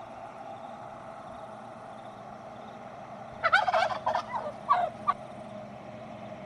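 Turkey gobbling: one rapid rattling gobble about three and a half seconds in, then two short calls, over steady background noise.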